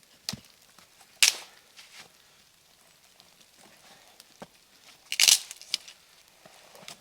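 A few irregular sharp crunches and snaps, the loudest a little over a second in and a longer one just past five seconds, with faint ticks between.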